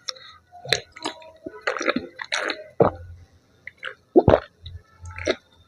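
Close-miked sips and swallows of cappuccino, a string of short wet mouth sounds with small clicks from handling the cup in between.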